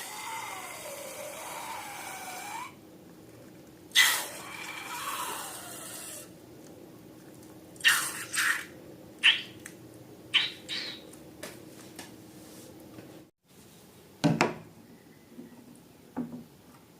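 Hands working with balloons and slime materials. Two sudden noises, each followed by about two seconds of a wavering squeaky rustle, then a run of short sharp clicks and taps.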